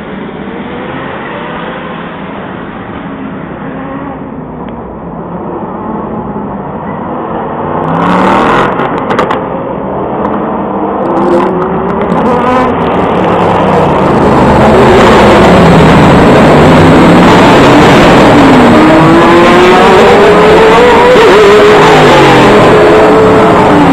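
Several GT1 racing cars' engines passing at speed, their pitches rising and falling and overlapping as they accelerate and change gear. The sound builds up and is loudest and steady over the last third.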